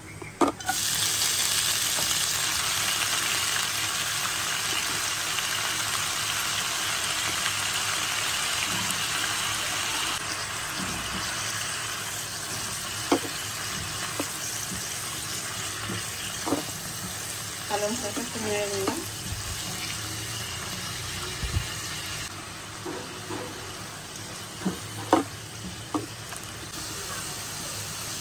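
Fresh spinach leaves sizzling in hot oil in a nonstick kadai. The sizzle starts sharply about half a second in and slowly eases as the greens wilt, with occasional clicks of a spatula against the pan as they are stirred.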